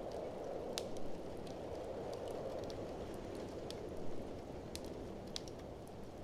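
Wood fire crackling with scattered sharp pops, the loudest just under a second in, over a steady low rushing of blizzard wind.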